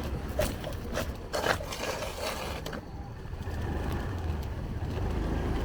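A few sharp scrapes and knocks in the first two seconds over a low steady hum, then quieter.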